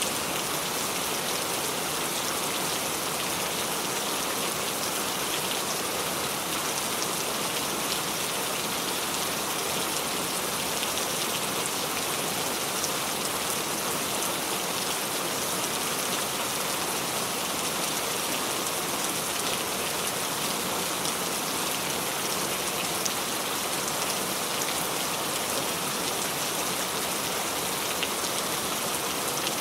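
Steady rain falling: an even hiss of many small drops landing on a surface, with no change throughout.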